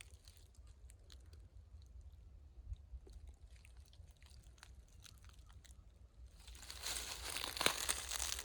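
Footsteps crunching in dry leaf litter: faint scattered crackles at first, then louder, denser crunching for the last two seconds or so.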